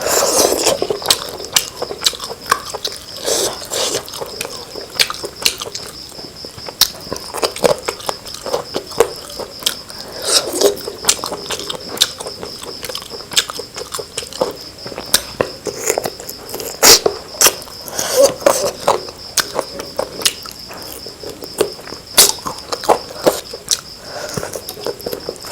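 Close-miked eating sounds of someone chewing chicken: irregular wet clicks and smacks of the mouth and lips. A faint steady high whine runs underneath.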